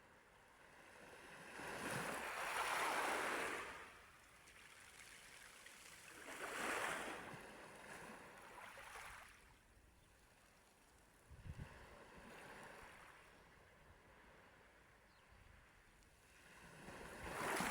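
Small waves of a calm sea washing in and drawing back, each wash swelling and fading over a couple of seconds, about every four or five seconds. A few soft low knocks come about two-thirds of the way through.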